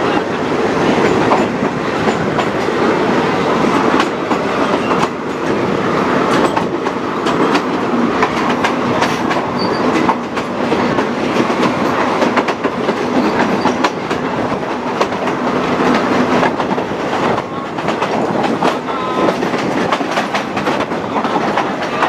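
Passenger train rolling along, heard from an open carriage window: a steady rumble of steel wheels on the rails with a rapid, irregular clicking and clacking over rail joints and points.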